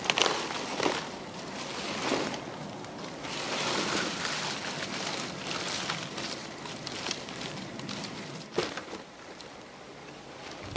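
Rustling and scraping of tree bark pieces being laid on a shelter roof, with a few sharp knocks.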